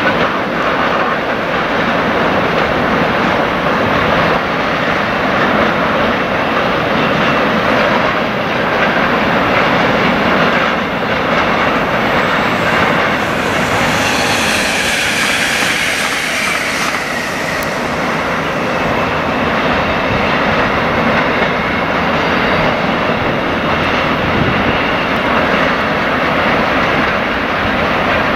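Freight train running past, its wagons rumbling and clattering steadily along the track, with a higher-pitched squeal and hiss for a few seconds about halfway through.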